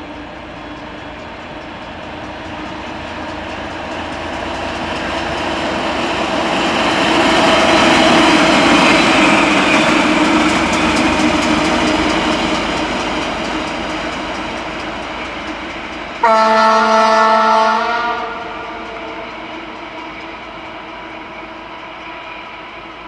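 A train approaching and passing, its rail and running noise rising to a peak about eight seconds in and then fading away. About sixteen seconds in, a train horn sounds once, a single steady note lasting just under two seconds and cutting off sharply.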